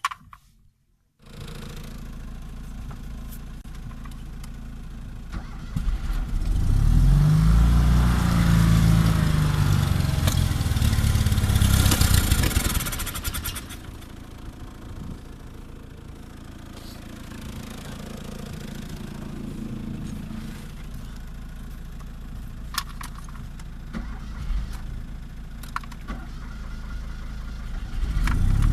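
Fiat 126p ELX's small air-cooled two-cylinder engine running after five years unused: it idles steadily, is revved up from about five seconds in and held high for several seconds, drops back to idle, and is revved again near the end.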